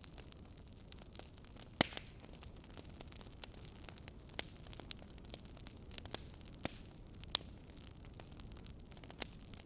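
Wood fire in a fireplace crackling, with irregular sharp pops and snaps over a steady soft hiss; the loudest pops come about two seconds in and again around seven seconds.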